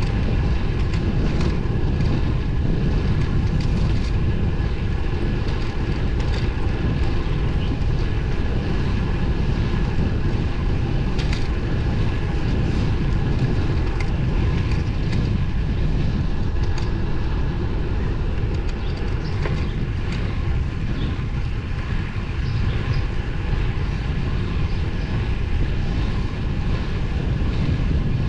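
Steady wind rush and tyre noise from a road bike being ridden on 23 mm tyres, with a faint steady whine and scattered light ticks over a dense low rumble.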